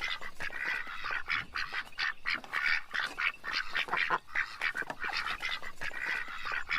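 A group of ducks quacking in rapid, overlapping calls without a pause.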